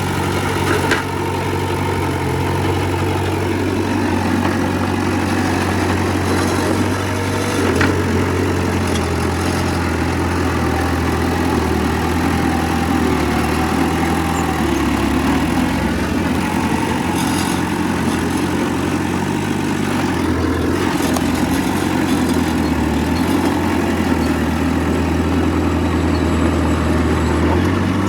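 Heavy diesel earthmoving machinery running steadily at a constant engine speed, with a few brief knocks along the way.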